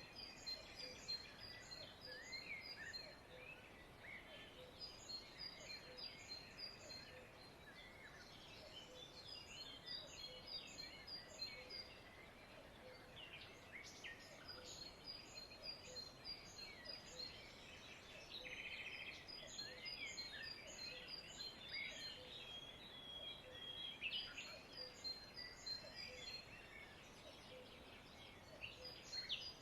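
Many small birds chirping and twittering together, faintly, with quick runs of high chirps recurring every few seconds.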